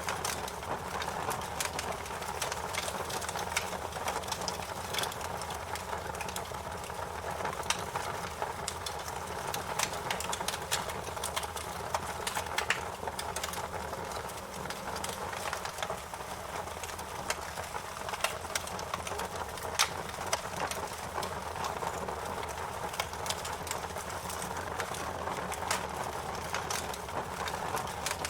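Wood fire burning in a fireplace: a steady rushing hiss of the flames with frequent sharp, irregular crackles and pops.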